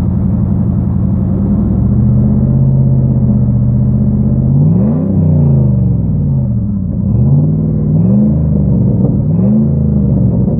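2002 Dodge Dakota's 4.7 V8 idling through a Flowmaster 40 series dual exhaust while still cold, then blipped up and back down four times: one longer rev about halfway through and three quicker ones near the end, kept to about 2500 rpm.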